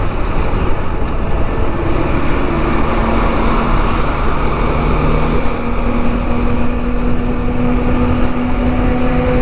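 KTM Duke 390's single-cylinder engine running at a steady cruise, under a steady rush of wind and road noise. A steady engine note comes up about two seconds in.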